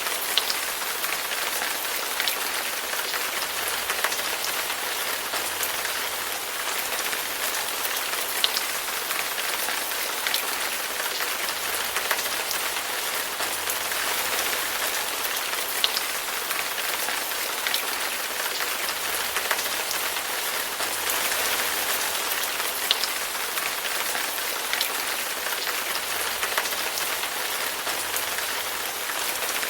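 Steady rain falling on a surface, with single louder drops ticking out every second or so.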